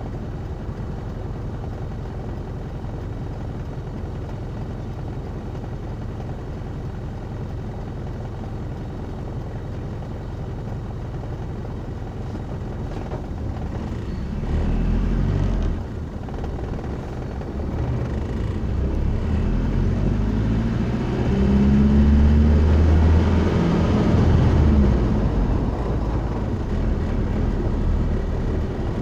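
Motor vehicle running with a steady low road rumble. From about halfway the engine sound grows louder, rising and falling in pitch.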